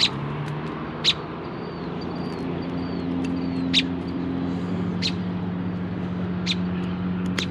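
A motor vehicle engine running steadily, its low hum growing slightly louder. Short sharp clicks come about once a second or so over it.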